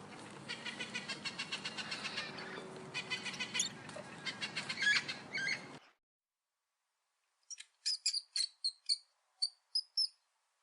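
High-pitched chirps from small animals: a rapid run of chirps, several a second, over background noise, cut off abruptly about six seconds in. After a short silence comes a separate series of about eight short, sharp squeaks.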